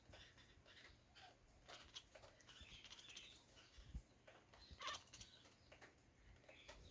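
Faint, scattered short animal chirps with a few soft clicks.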